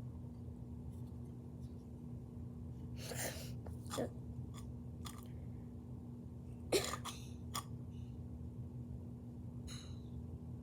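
A few short, scattered rustles and knocks from a package being handled, the sharpest click about seven seconds in, over a steady low electrical hum.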